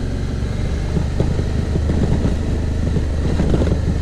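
Suzuki V-Strom motorcycle engine running steadily at a constant pace while riding on a rough dirt road, with scattered short knocks and rattles.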